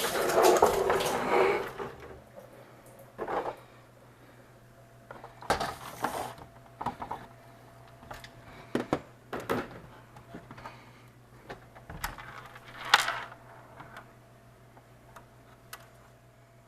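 Scattered clicks, knocks and light clatter of ice machine parts being handled, over a steady low hum, with a couple of seconds of rushing noise at the start.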